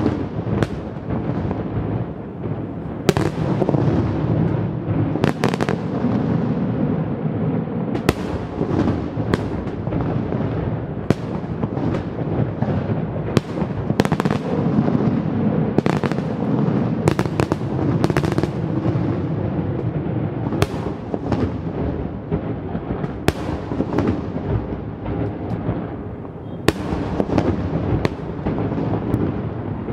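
Fireworks display: a continuous barrage of shell bursts, with sharp cracks and bangs several times a second over a steady low rumble of explosions.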